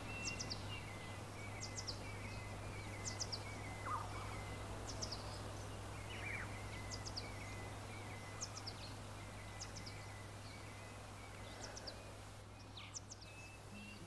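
Faint forest ambience: a small bird repeating short, high chirps in quick pairs or triplets every second or two over a steady low hum.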